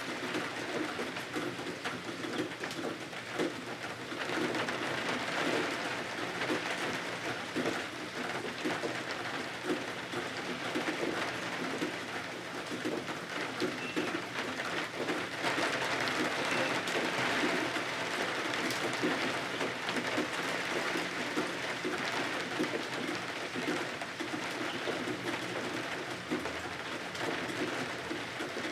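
Steady rain pattering, a continuous hiss with many small drip ticks.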